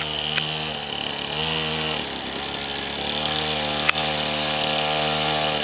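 Pit bike's small single-cylinder engine running under a light throttle. It revs up briefly about a second and a half in, drops back, then revs up again and holds a higher note. There is one short click near the end.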